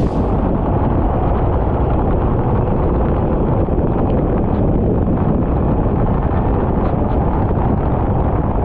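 A racing kart running at speed, its engine rumble mostly buried under heavy wind buffeting on the microphone. The noise is loud and steady, with no clear engine note.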